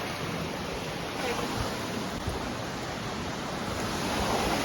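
Steady rushing of a waterfall and creek running high after heavy rain, getting a little louder near the end.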